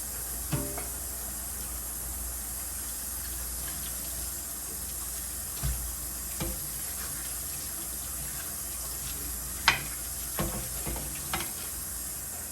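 Pieces of wahoo frying in oil: a steady sizzle, with a few light knocks of a utensil or pan, the sharpest about ten seconds in.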